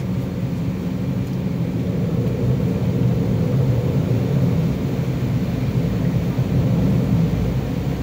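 Steady low rumble inside the cabin of an Embraer E190 airliner: its General Electric CF34 turbofan engines and cabin air running evenly, with no sudden sounds.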